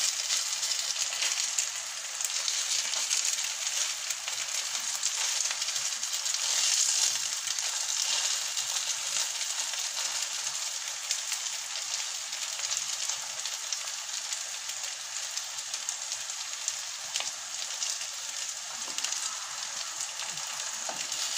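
Chicken nuggets sizzling steadily in hot sunflower oil in a frying pan over medium heat, with a few faint clicks as they are turned.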